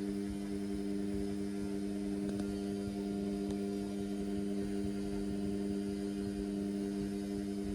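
Indesit washing machine running mid-cycle on a synthetics wash overloaded with suds, giving a steady hum with no change in pitch.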